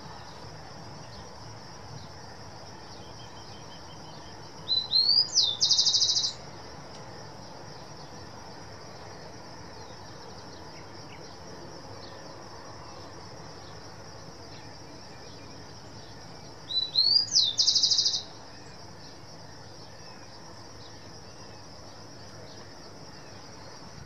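A bird calls twice, about twelve seconds apart. Each call is a couple of quick rising notes running into a fast, loud trill. Underneath there is a steady high insect-like hum and a faint, steady low rumble.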